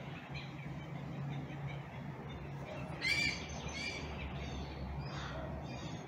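A yellow-headed caracara calling as it comes to a window sill: three short high calls, the first about halfway through the loudest. A steady low hum runs underneath.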